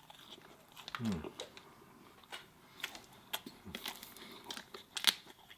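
Close-miked eating sounds: small wet clicks and crackles of chewing, with light crinkling of food packaging, and a short falling "mm" hum about a second in.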